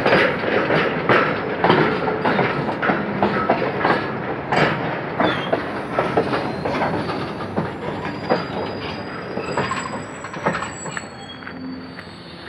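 Freight wagons, flat wagons carrying long rails and open wagons, rolling past close by. Their wheels clack and knock over the rail joints, thin high wheel squeal joins in the second half, and the sound fades gradually.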